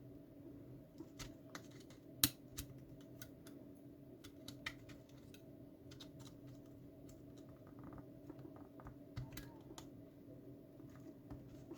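Scattered small clicks and scratches of a tool picking at the locking pins of a wire terminal in a plastic fuse box connector, with one sharper click about two seconds in, over a faint steady hum.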